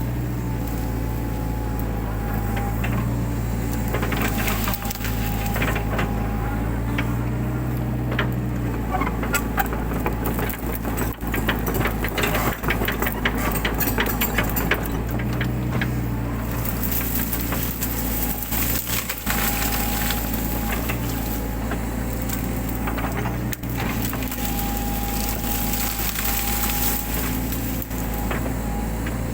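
Mini excavator engine running steadily, its pitch shifting as the hydraulics take load, with the crackling and snapping of brush and branches being torn up and crushed, thickest around the middle.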